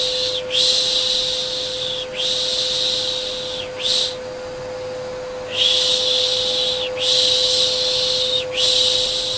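Soothing baby shushing ('shhh'), long hissy shushes of about a second and a half each in runs of three or four with a short pause, over a steady vacuum cleaner hum.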